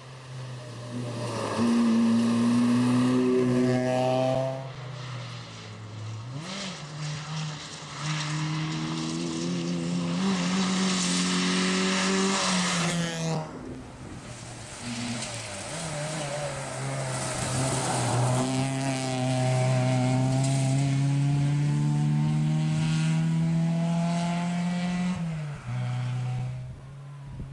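Rally car engine revving hard through the gears, its pitch climbing in each gear and dropping sharply at each shift, several times over.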